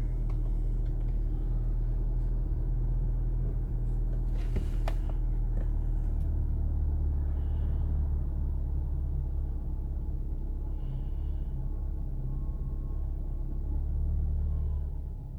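Seat Leon 1P's 1.4 TSI four-cylinder turbo petrol engine running with a steady low rumble and vibration: the intermittent noise that appears on some mornings since its timing chain was replaced. A single sharp click sounds about four and a half seconds in.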